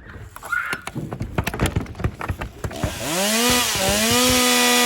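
Clattering knocks, then a chainsaw engine revs up, dips briefly, and runs steadily at high revs near the end.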